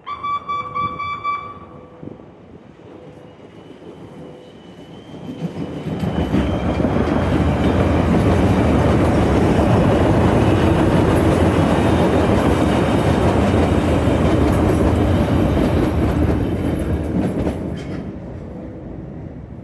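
Chicago 'L' Brown Line train: a short horn blast right at the start, then the train's wheels and cars run loudly past on the rails, building over a few seconds, holding for about ten seconds and fading away near the end.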